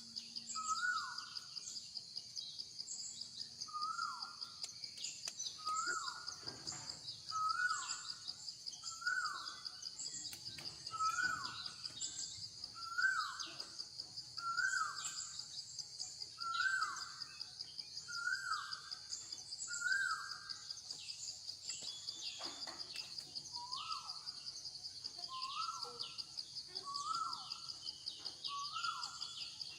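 Outdoor ambience: a steady high insect trill, with a bird repeating a short falling call about every one and a half to two seconds, pausing briefly about two thirds of the way through.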